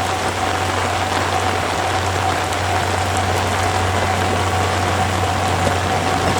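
Heavy rain falling steadily, a dense even hiss, over a steady low hum and a faint steady tone.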